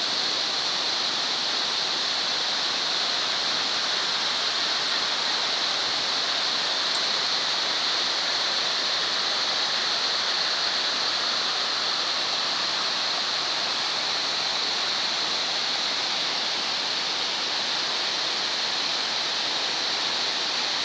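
Bousra waterfall: a steady, unbroken rush of falling water.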